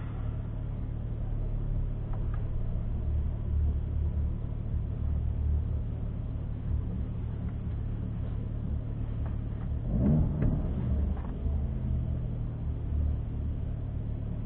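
Tuned VW Golf 7R's turbocharged four-cylinder idling, heard from inside the cabin as the car waits and creeps forward in the drag-strip staging lane. About ten seconds in, an engine revs briefly, rising and falling in pitch.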